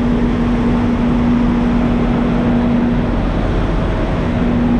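Idling truck engine noise, a steady drone with a constant hum that drops out for about a second past the middle and then returns.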